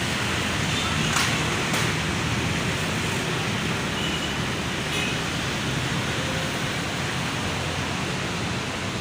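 Heavy rain falling in strong wind: a steady rushing noise, with two sharp clicks a little over a second in.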